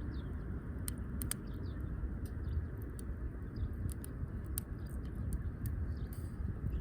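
Wood fire crackling in a firewood grill: scattered sharp pops, irregularly spaced, over a steady low rumble.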